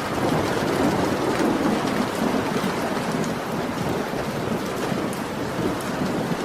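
Heavy rain falling steadily, with a low rumble of thunder swelling through the first few seconds.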